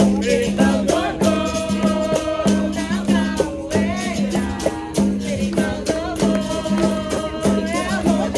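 Capoeira roda music: berimbau notes repeating in a steady pattern with the caxixi shaker rattling, dense regular percussion strikes, and voices singing over it.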